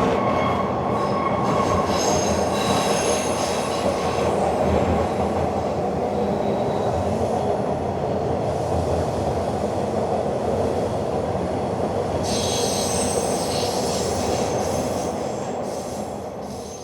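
Toronto subway train running on the rails, heard from inside the car as a steady rumble, with wheels squealing in high tones twice, a couple of seconds in and again near the end. The sound fades out at the very end.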